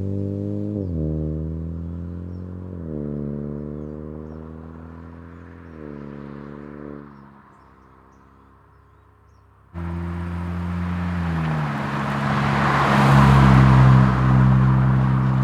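Hyundai Elantra N-Line's 1.6-litre turbocharged four-cylinder through an MBRP dual rear-exit axle-back exhaust, revved in three short blips that settle back toward idle. About ten seconds in it switches suddenly to the car running along, the exhaust note under a rush of road and wind noise that swells a few seconds later.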